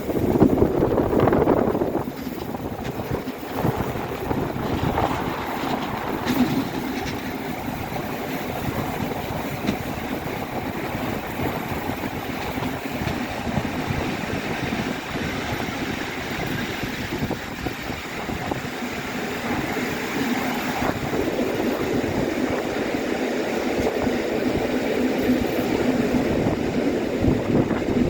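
Passenger train running steadily along the track, a continuous rail-and-wheel noise that is a little louder for the first two seconds.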